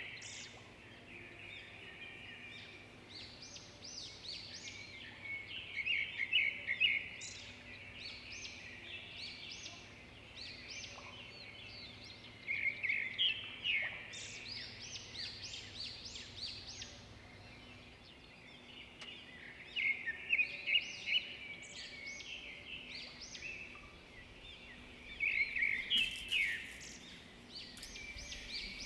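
Birds chirping and singing: loud bursts of quick high chirps come about every six to seven seconds, with softer chirping in between.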